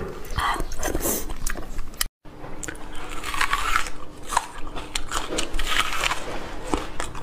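Close-miked eating: wet chewing and smacking with many sharp mouth clicks. A brief moment of silence about two seconds in breaks it.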